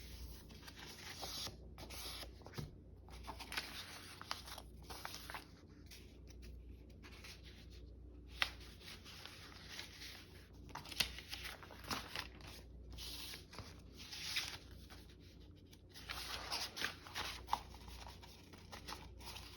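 Sheets of printed and dyed paper being handled and shuffled: soft, irregular rustling and sliding with small scrapes and clicks.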